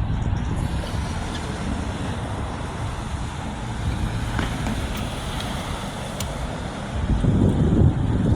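Road traffic at an intersection: a steady rumble of vehicle engines and tyres, growing louder about seven seconds in as a vehicle passes close by.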